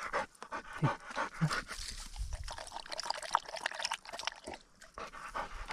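Hunting dog panting, with many short rustles and clicks around it.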